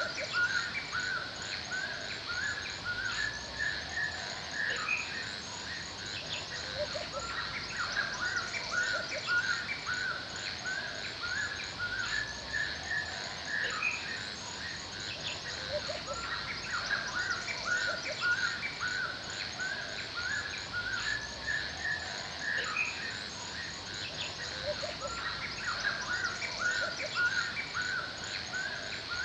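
Forest ambience: many small birds chirping in quick short notes over a steady high insect buzz. The same few notes come back about every nine seconds, as in a looped recording.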